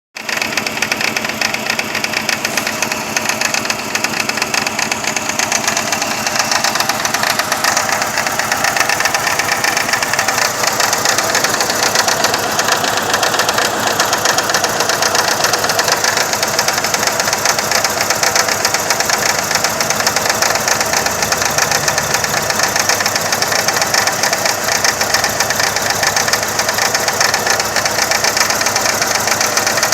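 2000 Saturn SL2's 1.9-litre four-cylinder engine idling rough and missing steadily. The misfire persists after new plug wires and a new #1 spark plug, and the owner suspects the remaining plugs or the coil packs.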